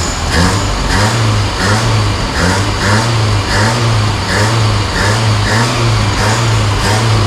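1983 Honda Civic's 1.5 L EM1 four-cylinder engine running unevenly, its speed rising and falling about twice a second. It is a carburetor fault.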